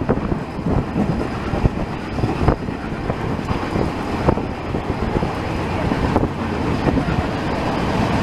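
Train running at speed, its wheels rumbling on the track with many irregular knocks, and wind buffeting the microphone.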